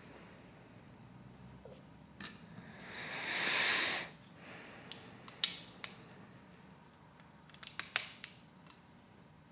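Plastic Lego Technic pieces clicking and rattling as they are handled and fitted together: a few sharp clicks, a quick cluster of clicks near the end, and about three seconds in, a rustle that swells and stops abruptly.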